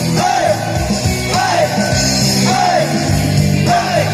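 Rock band playing a passage between sung lines, with drums, bass and a short arching melodic phrase that repeats about every second and a quarter.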